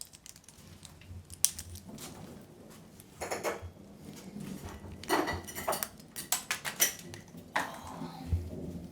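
An African grey parrot's beak clinking and scraping against a glass as it picks a snack out of it, in scattered sharp taps.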